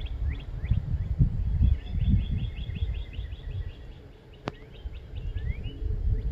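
Songbirds calling: a few quick rising chirps, then a fast trill of repeated notes, about seven a second, lasting some two seconds, and more chirps near the end. Under them is a gusty low rumble of wind on the microphone, with a single sharp click about four and a half seconds in.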